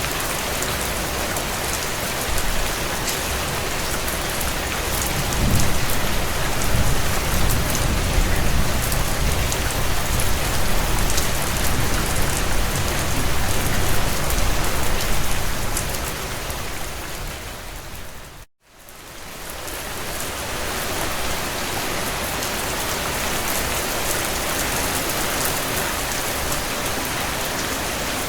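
Heavy rain drumming on a tin roof, a steady dense hiss of drops. A low rumble swells and dies away in the first half. About two-thirds of the way in, the rain fades out to a moment of silence and fades back in.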